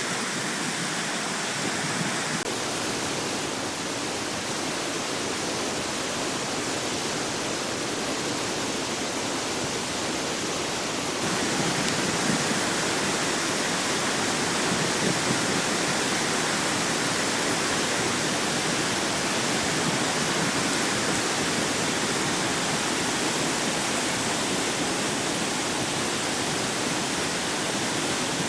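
Flooded mountain brook rushing in a steady, loud wash of water noise, a little louder from about eleven seconds in.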